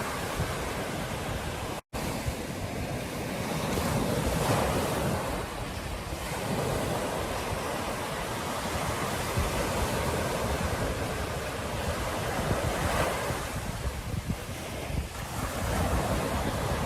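Ocean surf washing onto a beach, a steady rush that swells with each breaking wave, with wind buffeting the microphone. The sound cuts out completely for an instant about two seconds in.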